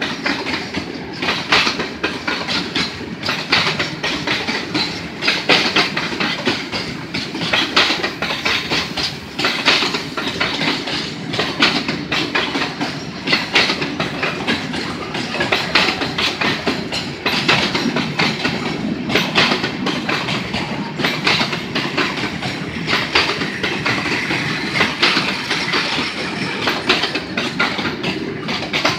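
Freight train's boxcars and covered grain hopper wagons rolling past: a steady rumble of steel wheels on rail, dense with clicks as the wheels cross the rail joints.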